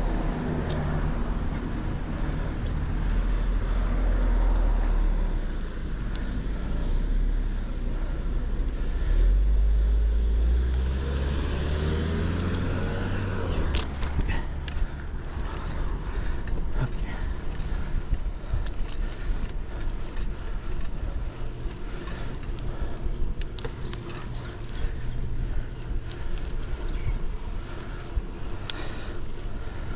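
Low wind rumble on a foam-covered GoPro microphone during a bicycle ride. A motor vehicle passes, its engine rising in pitch from about nine to fourteen seconds in. The second half has scattered clicks and rattles as the folding bike rolls over cracks and dips in the pavement.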